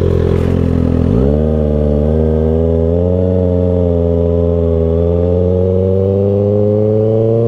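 2024 Kawasaki Ninja ZX-6R's 636 cc inline-four engine running on the road. Its pitch dips and sweeps back up about a second in, then climbs slowly and steadily as the bike gathers speed.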